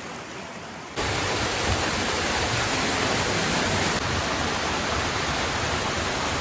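Waterfall water rushing as a steady, loud noise with no tones, cutting in abruptly about a second in.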